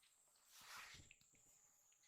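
Near silence, with a faint rustle and a few soft taps and clicks about half a second to one second in, as of kittens moving about.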